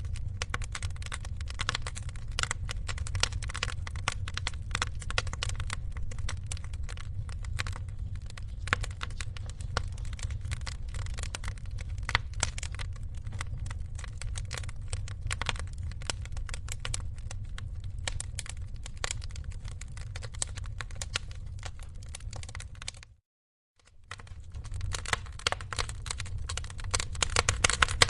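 Wood fire crackling in a fireplace: dense pops and snaps over a low rumble. The sound cuts out for about half a second near the end, then resumes.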